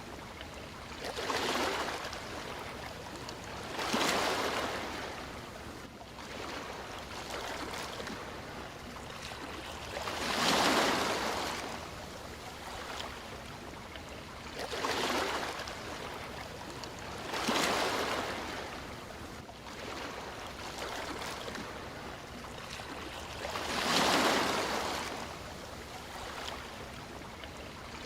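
Sea waves surging in and washing back over a steady hiss of water. About six waves swell and fade at uneven intervals a few seconds apart.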